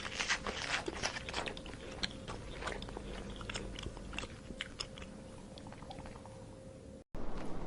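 An animal chewing and crunching food: an irregular run of crisp crunches that thins out after about five seconds, over a faint steady hum.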